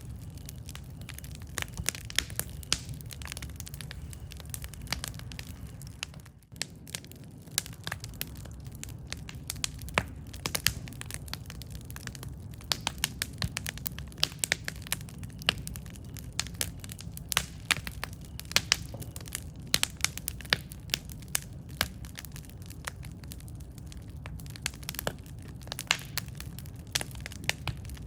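Wood campfire crackling, with irregular sharp pops and snaps over a steady low rumble of the burning fire.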